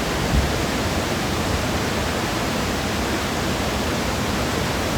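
Crystal Creek Waterfall falling into its pool, a steady even rush of water, with a faint low bump near the start.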